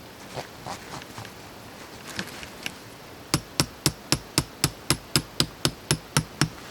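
A hammer striking repeatedly: a few softer, uneven taps, then thirteen quick, even blows at about four a second.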